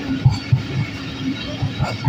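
Train running through a yard, heard from aboard: irregular wheel knocks over rail joints and points, over a steady low hum.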